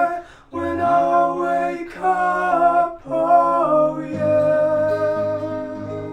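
Singing with acoustic guitar: a few short sung phrases, then a held guitar chord that rings on and slowly fades out.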